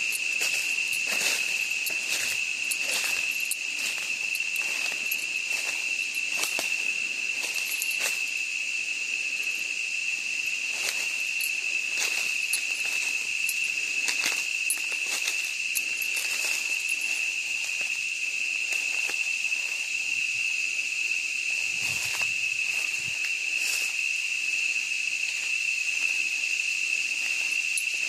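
Steady, high insect chorus, cricket-like, with footsteps on the forest floor crunching about once a second.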